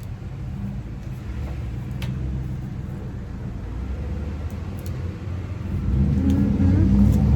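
A car passing by, its engine and tyre rumble growing louder near the end. A few faint clicks are heard along with it.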